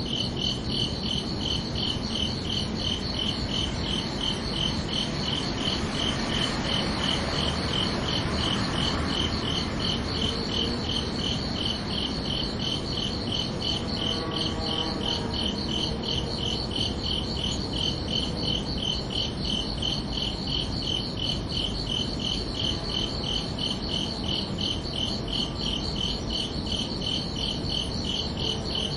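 Crickets chirping in a steady, evenly spaced rhythm, high-pitched, over a low background hiss.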